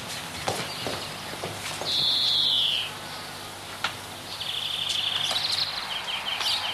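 Birds chirping in short, high, rapid trills repeated every second or so, the loudest one a little before the middle, with a few faint clicks.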